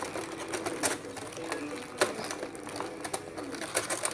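A dove cooing, a low wavering call, with scattered small clicks and light knocks of things being handled.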